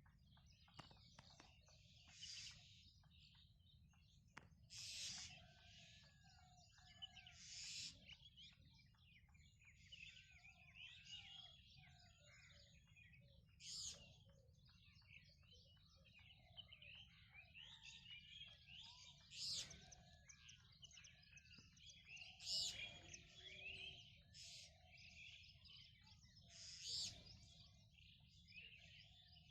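A dawn chorus of several birds chirping and calling, with many quick chirps and whistles and a louder, sharper call every few seconds, over a faint steady low hum.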